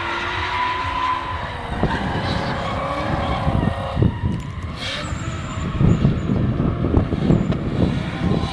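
Drift car engine running hard: its note falls in the first second, then a loud, uneven low rumble with sharp cracks builds toward the end.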